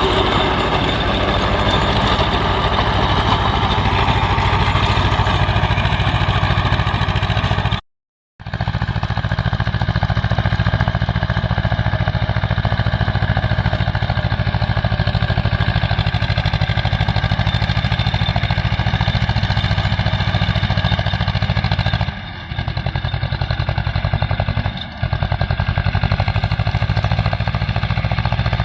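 Swaraj 724 XM tractor's two-cylinder diesel engine running steadily with an even low thudding beat. The sound drops out completely for half a second about eight seconds in, and dips briefly twice near the end.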